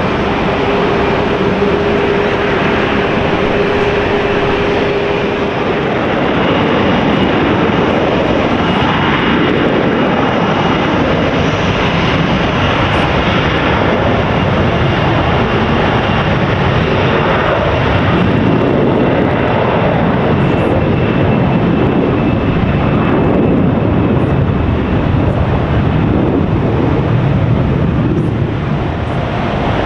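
Jet airliner engines running loudly and steadily, with a high whine that drifts slowly lower through the middle. A lower steady tone is heard at first and fades out about six seconds in.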